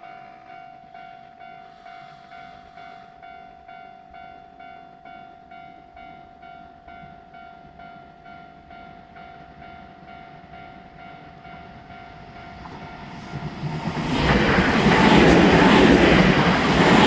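Japanese level-crossing alarm ringing its electronic bell about twice a second. Then a Nankai 50000 series Rapi:t limited express passes through the crossing without stopping: its running noise builds from about twelve seconds in and is loudest near the end.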